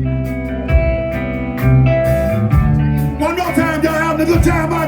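Live electric blues band playing: a sustained chord over bass and drums, then a wavering, bending lead line with singing coming in about three seconds in.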